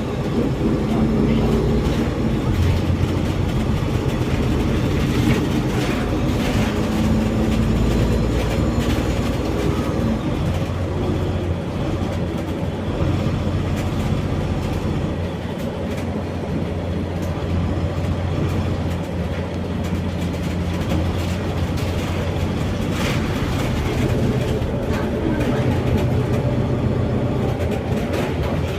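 Bus engine and drivetrain running under way, heard from inside the passenger cabin, with a steady low drone and interior rattles.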